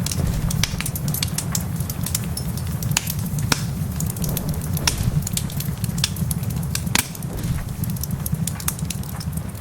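Wood fire crackling in a fireplace, with irregular sharp pops, a few louder than the rest, over a steady low rumble of the storm.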